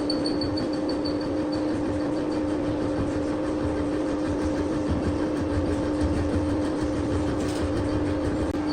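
Workshop machine motor running steadily with a constant hum and a low rumble beneath it.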